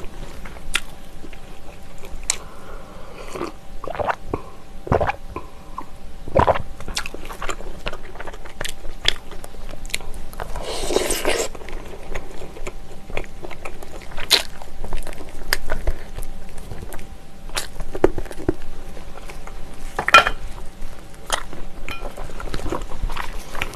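Close-miked chewing and biting of braised ox knee held in gloved hands: wet mouth sounds with many short clicks. About eleven seconds in there is a longer wet sucking sound.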